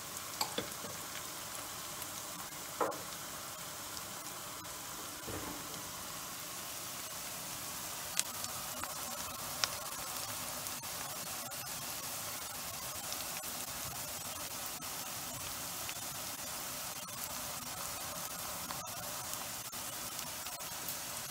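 Diced onion, garlic and bay leaves frying gently in olive oil in a frying pan: a steady sizzle with a few sharp pops in the first half, as the onion starts to sweat.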